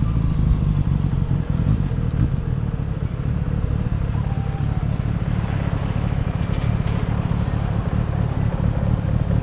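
Motorcycle engine running at low revs with a steady low rumble. Its note falls in the first second as the bike slows to a crawl in traffic.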